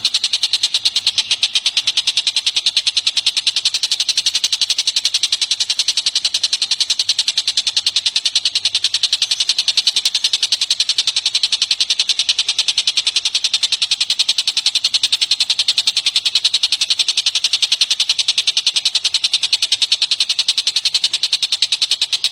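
A songbird's high, dry trill: rapid, evenly spaced pulses, many per second, running on without a break.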